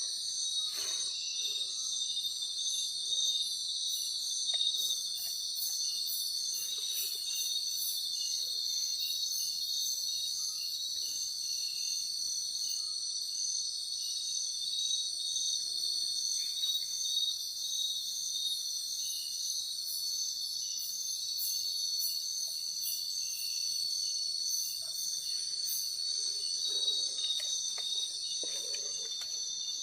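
Steady, high-pitched chorus of night insects such as crickets, several overlapping trills holding on without a break.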